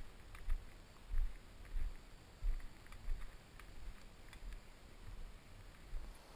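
Hiker's footsteps on a trail: low, muffled thuds at a walking pace, about one every half second to second, with faint small clicks; the thuds weaken after the first few seconds.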